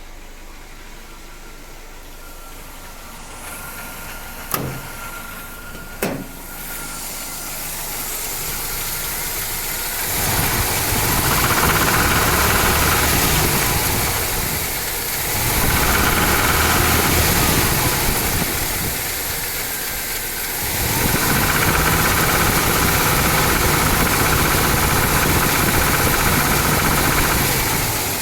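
Mercedes-Benz M102 four-cylinder petrol engine in a W124, running quietly at idle and then brought up to higher revs and held three times, dropping back in between. The owner hears a knock from it that he cannot explain. Two sharp clicks come in the quieter opening stretch.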